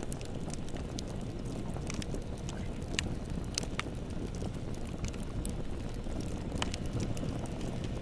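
Bonfire burning: a steady low rumble of flames with scattered sharp crackles and pops from the burning wood, a few seconds apart.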